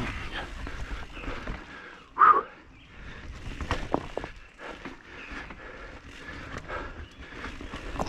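Mountain bike rolling over rocky single-track: scattered clicks, knocks and rattles from the tyres and frame, with a short, louder burst about two seconds in.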